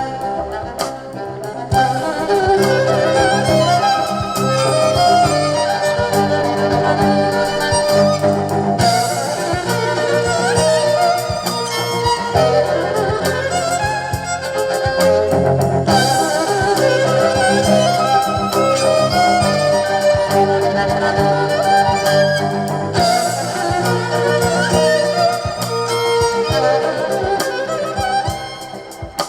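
Live band music: an instrumental passage with a melody over bass and drums, its pattern shifting about every seven seconds.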